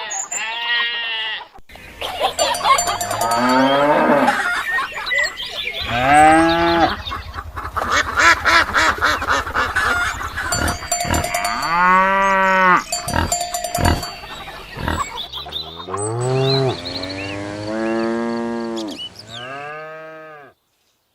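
A series of drawn-out farm-animal calls, each rising and falling in pitch, several overlapping one another. It stops abruptly near the end.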